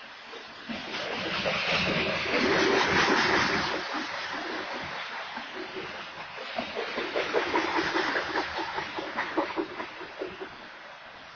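A freight train of hopper cars rolling past: a rushing rumble of wheels on rail that swells twice, with rapid clattering wheel clicks through the second swell.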